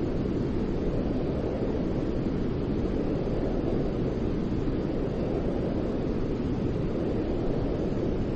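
Steady white noise for baby sleep: an even, unbroken rushing hiss weighted toward the low end, closer to a deep rumble than a bright hiss.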